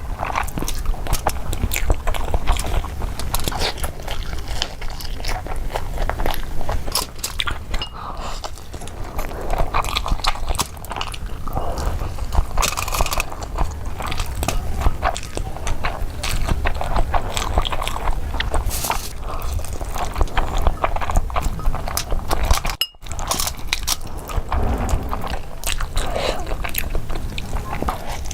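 Close-miked eating sounds: irregular biting, chewing and crunching, with a brief break about 23 seconds in.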